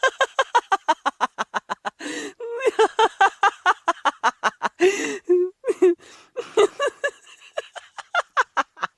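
Hearty human laughter: rapid 'ha-ha' pulses, about seven a second, broken by sharp noisy in-breaths about two seconds in and again near five seconds.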